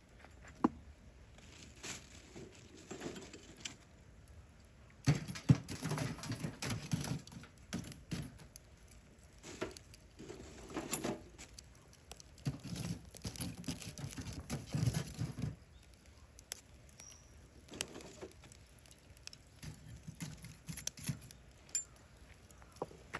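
Irregular rustling and scraping with light clicks and clinks, coming in bursts of a few seconds.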